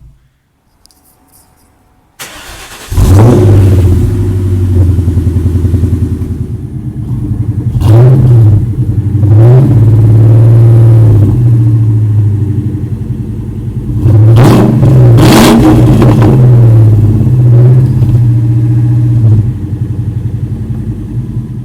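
2002 Ford Mustang's 4.6-litre two-valve V8 through a full replacement exhaust, starting up a couple of seconds in and then idling loudly. Its revs are blipped briefly several times before it cuts off near the end.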